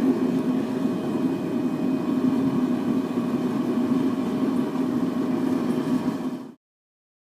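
Propane forced-air burner firing the furnace: a steady roar of flame with a constant blower hum, cutting off abruptly about six and a half seconds in.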